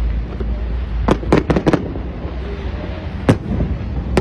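Fireworks bursting: a quick cluster of four sharp bangs about a second in, then a single bang a little after three seconds, over a steady low rumble.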